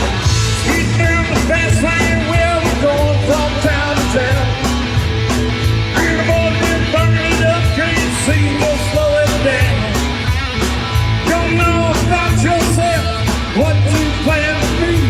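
Live rock band playing an instrumental stretch: electric guitar over bass guitar and a drum kit keeping a steady beat.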